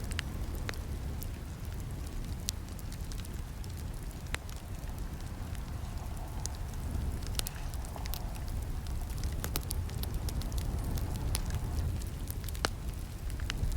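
Campfire burning: a steady low rumble of flames with frequent sharp crackles and pops scattered at irregular intervals.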